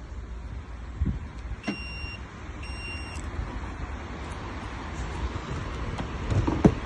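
A thump, then two short electronic beeps about a second apart, over a low steady rumble; a sharp knock near the end.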